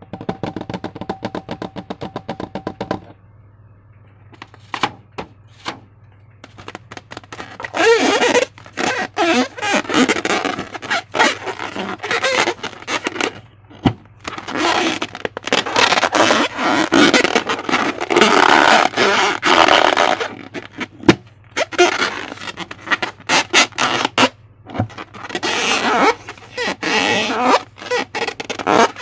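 Slime being squished and stretched by hand, with wet crackling and clicking in long bursts that stop and start. Before that comes a few seconds of fast clicking under a steady tone.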